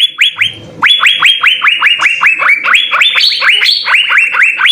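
Asian fairy-bluebird (cucak biru) singing: a fast run of clear whistled notes, each sliding down in pitch, about five a second, with a short break just after the start.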